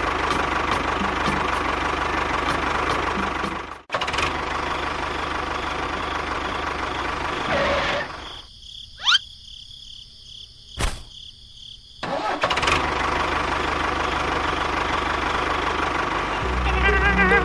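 A motor runs steadily with a noisy hum. It drops out briefly about four seconds in. From about 8 to 12 s it gives way to a quieter stretch with a quick rising whistle and a sharp hit, then runs again. Music comes in near the end.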